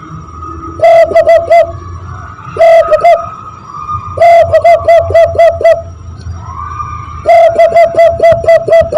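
Zebra dove (perkutut) call imitated by blowing into cupped hands: four phrases of quick cooing notes. The later two phrases are longer runs of about eight notes. A faint steady higher tone runs underneath.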